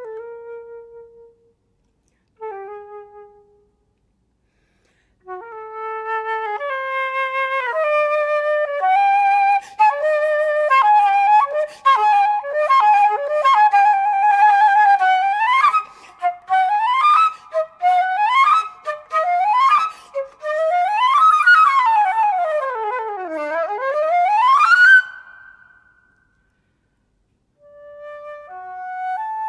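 Unaccompanied flute playing: a few held notes separated by short pauses, then a louder, faster passage with repeated quick upward sweeps and a long run down and back up. It breaks off briefly and picks up again near the end.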